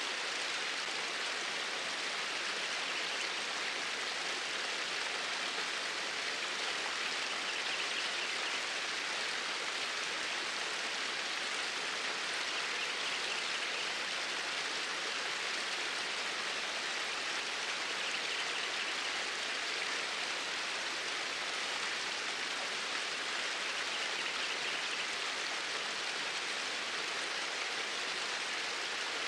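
Flowing water, a steady even rush with no change in level.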